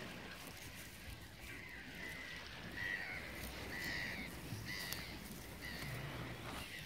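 A bird calling a string of short calls, about seven in four seconds, starting about a second and a half in.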